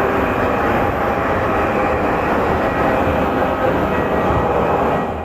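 Steady, loud noise of a passenger airliner's engines and air system, heard from inside the cabin, ending in an abrupt cut.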